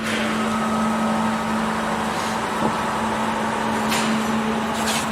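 Laser welding machine running: a steady electrical hum over even fan-like noise, with two short hisses about four and five seconds in.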